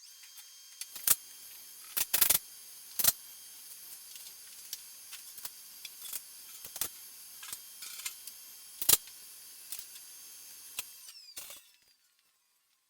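A machine's steady high whine with scattered sharp clicks and knocks; the whine slides down in pitch and stops about eleven and a half seconds in.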